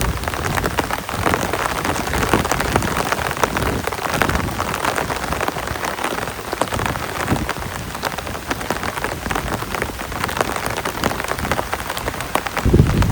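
Heavy rain falling steadily, a dense hiss of drops striking a surface close by. A low rumble comes in near the end.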